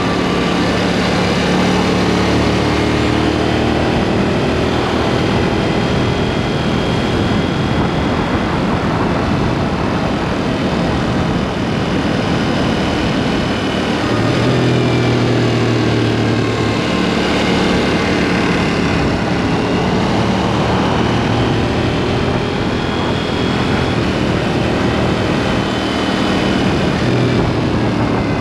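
KTM 790 Duke's parallel-twin engine, fitted with a SpeedPro Cobra SPX aftermarket exhaust, running on the move, its pitch rising and falling several times as the revs change.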